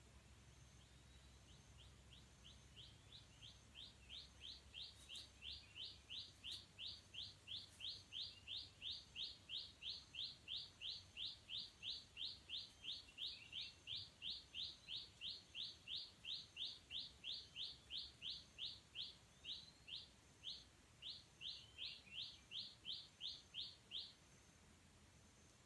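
A bird calling a long, fast series of short rising notes, about two and a half a second. The notes grow louder over the first several seconds, break briefly near the end, then stop abruptly.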